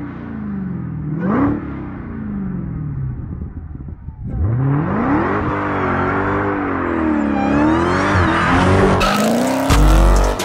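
Dodge Charger Hellcat's supercharged V8 revving hard, its pitch swinging up and down again and again, with a hiss of tire squeal over it. The engine gets louder about four seconds in, and near the end it changes abruptly to the sound of a burnout.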